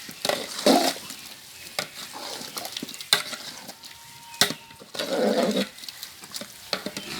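A ladle scraping and clanking against a large cooking pot as the curry is stirred, with sharp knocks about every second and a half.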